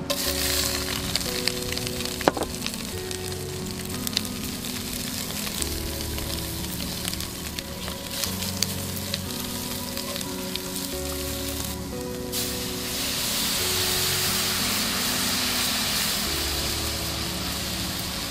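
Food frying in hot oil: a steady sizzle with frequent sharp crackles and pops. About twelve seconds in the sizzle turns louder and smoother. Soft background music plays underneath.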